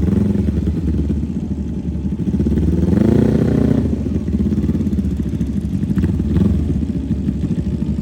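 Mini bike engine running, revved once about three seconds in, its pitch rising and then falling back.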